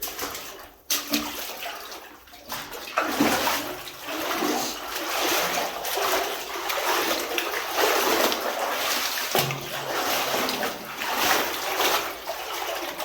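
Someone wading through floodwater, the water splashing and sloshing with irregular surges as they move along.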